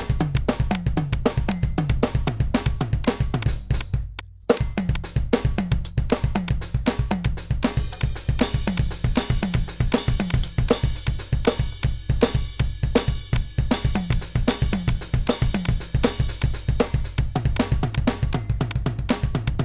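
Electronic drum kit played in a fast groove, with rapid bass drum strokes under snare and cymbal hits. The playing breaks off briefly about four seconds in, then picks up again.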